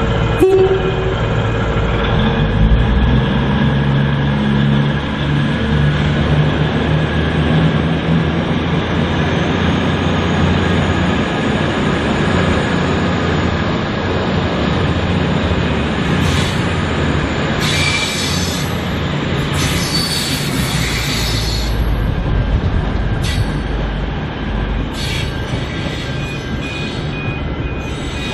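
V/Line VLocity diesel multiple unit running through the station with a steady diesel engine and wheel-on-rail noise. Its wheels squeal in high-pitched bursts in the second half.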